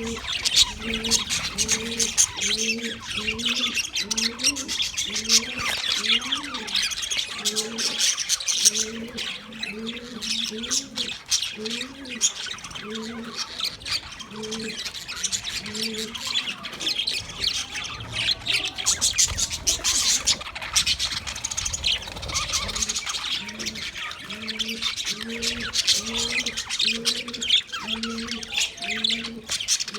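Budgies chattering, with dense, fast chirps and squawks throughout. Under them a low arched note repeats about every half second, pausing in the middle and returning near the end.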